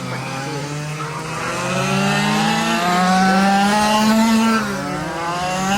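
Several quarter-scale RC race trucks' small engines running together, their overlapping notes rising and falling in pitch as the trucks speed up and slow through the turns. The sound grows louder past the middle, then eases near the end.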